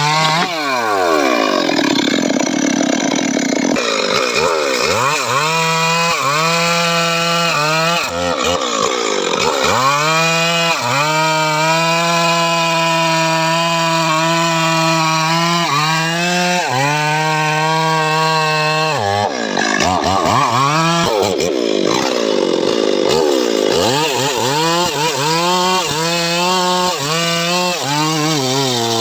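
Chainsaw engine of a homemade srekel saw rig cutting sengon wood. It revs down and back up several times and holds a steady high pitch for long stretches, with one long full-throttle run in the middle.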